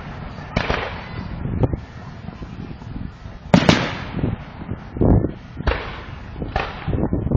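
Fireworks going off: a rapid series of booms and crackling bursts, each dying away quickly. The loudest bang comes about three and a half seconds in, and a cluster of bursts follows near the end.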